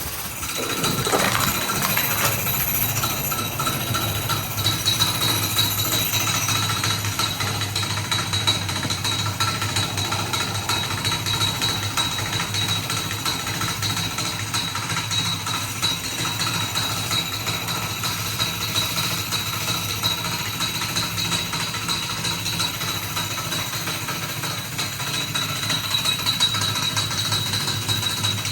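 High-pressure spray wand at a self-serve car wash blasting rinse water onto a car, over the steady hum of the wash's pump and a steady high tone from the spray. The spray picks up about a second in.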